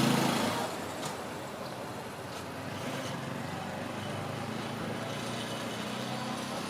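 A motor vehicle's engine hum fading away within the first second, then steady background traffic noise with a faint engine hum that rises again near the end.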